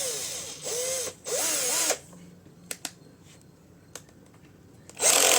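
Cordless hammer drill's motor spinning up and winding down in short trigger pulls, twice in the first two seconds, each pull rising then falling in pitch. A few faint clicks follow, then another short loud burst near the end.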